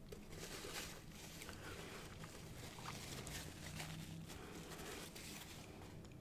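Faint, close-miked eating noises: irregular rustling and crackling of food and its wrappers, easing off near the end.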